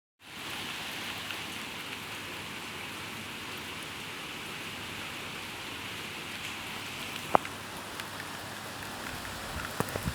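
Steady rain falling, with a single sharp tap about seven seconds in and a few small ticks near the end.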